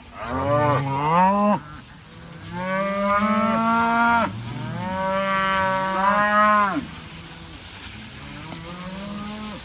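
Several cows mooing in turn, long drawn-out calls that overlap one another. The loudest calls come in the first seven seconds, and fainter ones follow near the end.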